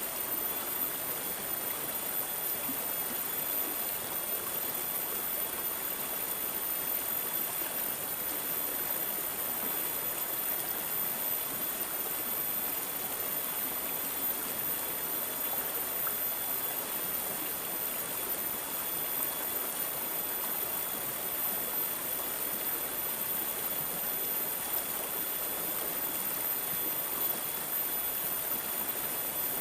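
Water babbling and gurgling steadily over stones, as in a small stream.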